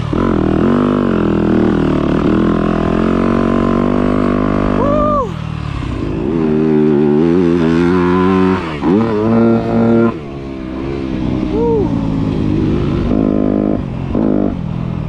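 Dirt bike engine under hard riding on a motocross track: the revs climb and fall again and again through the gears, with several sharp drops and pickups in pitch. Near the end come short on-off throttle bursts.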